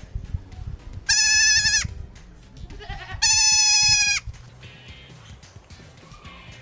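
An animal calling twice, each call a loud, high, wavering bleat-like cry about a second long, the two about two seconds apart.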